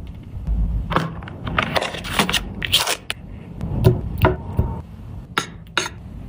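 Food containers and packaging being handled and put away: a series of sharp clicks and knocks as items are set down, with scraping and a brief crinkle of packaging about two and a half seconds in.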